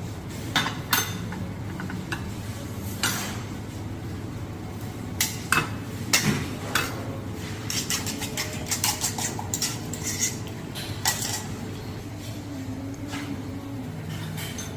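Plates, pans and cutlery clinking and clattering, with many sharp clinks coming in quick runs over a steady background hum.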